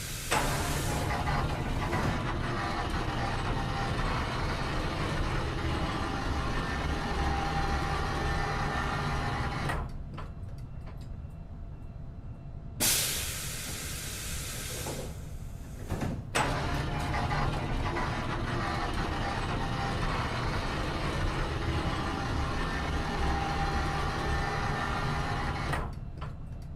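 Airplane door powering open: a burst of air hiss, then a long steady mechanical whirring hum. It happens twice, first for about ten seconds and then, after a short hiss about thirteen seconds in, for another thirteen seconds.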